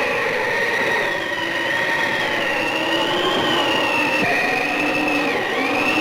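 Blizzard sound effect: a steady rush of wind with whistling howls that slowly rise and fall in pitch over it.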